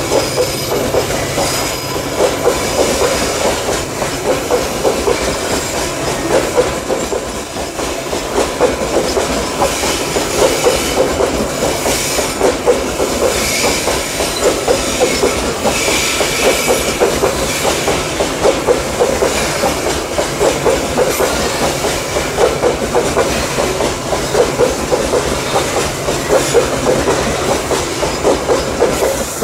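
Loaded coal wagons of a long Babaranjang freight train rolling past, wheels clattering rhythmically over the rail joints, with faint high wheel squeals at times.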